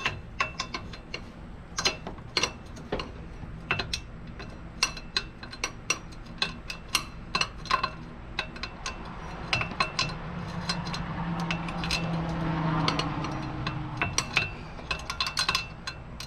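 Ratchet wrench clicking in irregular runs, with metal tool clinks, as a bolt on the engine's AC compressor bracket is worked. A low hum swells and fades in the middle.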